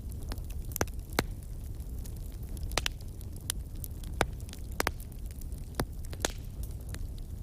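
Wood fire crackling in a fireplace: about a dozen sharp, irregular pops over a steady low rumble.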